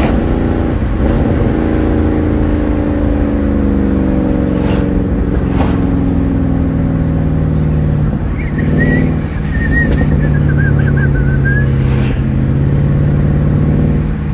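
Mercedes-Benz C63 AMG (W204) 6.2-litre V8 running while the car is driven, its engine note falling in pitch over the first few seconds, then holding steady.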